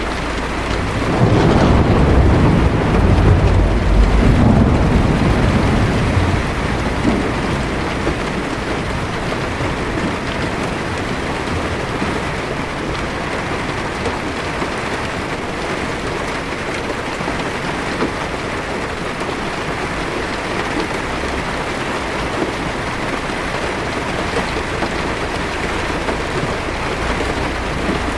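Heavy rain falling steadily on a car's windshield and roof, heard from inside the car. A low rumble of thunder swells about a second in and fades out over the next five seconds, leaving steady rain.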